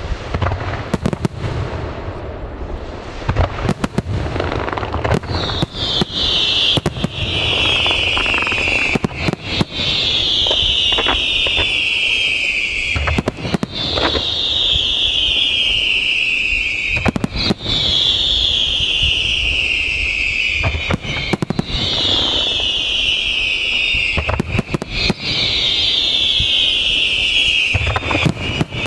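Aerial fireworks going off: many sharp bangs and crackles. From about five seconds in, a high whistle slides down in pitch, each lasting about three seconds and repeating about every four seconds, six times.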